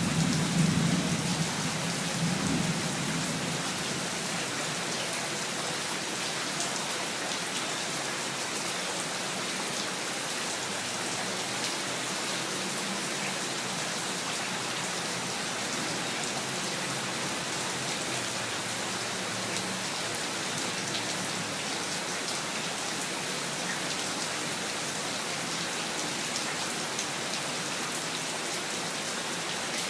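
Steady, dense rain falling on surfaces, with a low rumble of thunder in the first few seconds that dies away.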